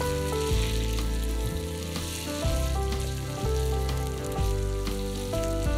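Potato strips sizzling as they fry in oil in a frying pan, turned over with a wooden spatula, with background music playing over it.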